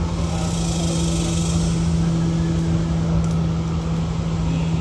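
Steady low mechanical hum at one constant pitch over a low rumble, with a few faint ticks around the middle.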